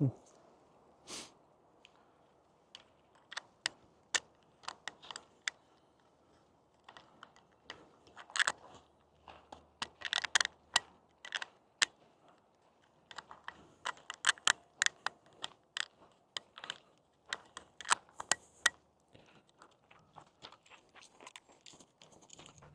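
Footsteps crunching on a dry trail surface: a run of irregular, sharp crunches with short pauses in between.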